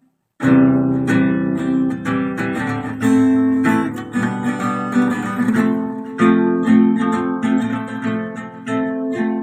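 Acoustic guitar strumming chords in a steady rhythm as a song's intro, coming in abruptly about half a second in.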